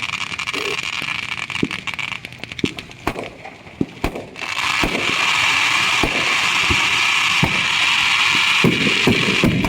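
Fireworks going off: a steady hissing crackle, then scattered sharp pops and bangs around the middle, and from about halfway a louder, sustained hiss with pops over it.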